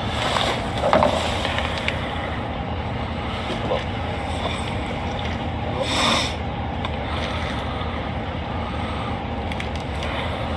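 Steady low rumble of a police patrol car's engine idling, heard from inside the car, with one short burst of noise about six seconds in.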